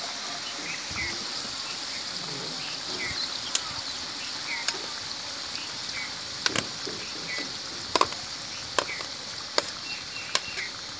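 Chicken and sliced onions sizzling in oil in a large metal cooking pot: a steady hiss with sharp pops that come more often in the second half.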